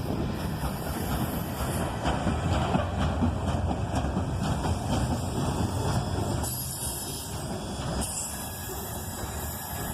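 Freight train of ethanol tank cars rolling past, a steady rumble of wheels on rail with repeated clicks, easing off after about six and a half seconds.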